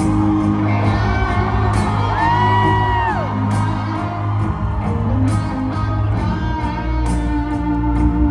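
Live rock band playing an instrumental passage with electric guitar, bass and drums. About two seconds in, a held lead note slides up, holds for about a second and slides back down.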